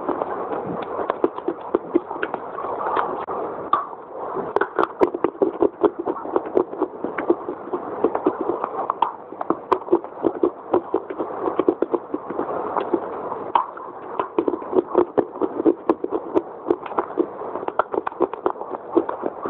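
Close-miked chewing of a dry, crunchy bite: fast, soft crunches, several a second, with a couple of brief pauses.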